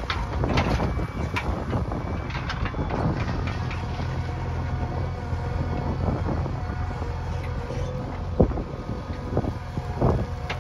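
Backhoe loader's diesel engine running steadily, with scattered knocks and one sharper knock about eight seconds in.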